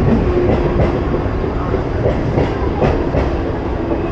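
Electric suburban local train (EMU) running past along a platform: a steady rumble of steel wheels on the rails, with irregular clacks as the wheels cross rail joints.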